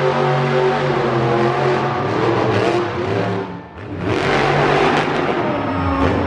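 Monster truck engine revving hard, easing off briefly about three and a half seconds in and then coming back on the throttle.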